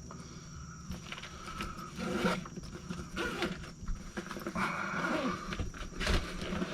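Range bag being opened and rummaged through: a couple of rasping rustles with scattered light clicks and a knock near the end as the main compartment is opened and items are handled.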